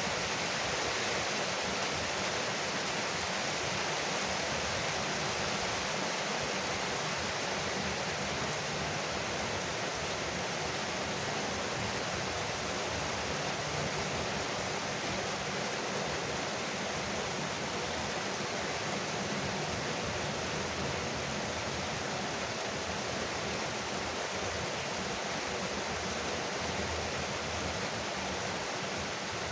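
Rain falling steadily on a veranda roof, an even, unbroken patter with no thunder.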